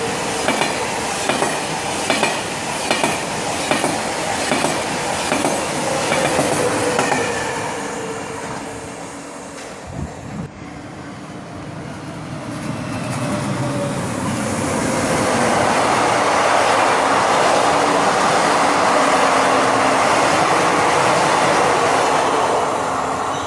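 Trains passing through a station without stopping: wheels clattering over rail joints in a quick, even rhythm as one train goes by and fades. A single thump about ten seconds in, then a steady rushing noise that builds as another train passes close by.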